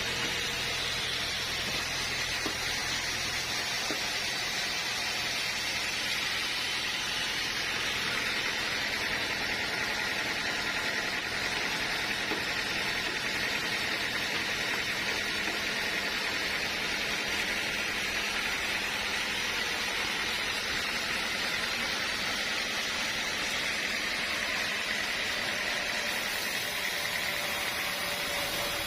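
Sawmill machinery running steadily with a constant hiss and no breaks.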